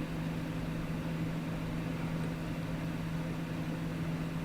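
Steady low hum with a faint even hiss, holding one pitch and never changing; no rustling or handling sounds.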